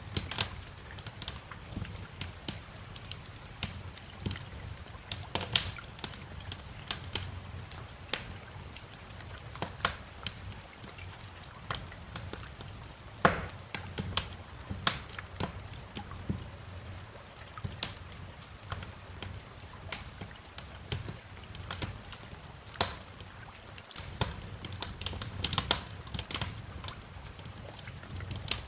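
Wood fire crackling in a fireplace: irregular sharp pops and snaps, a few of them louder, over a soft low rumble.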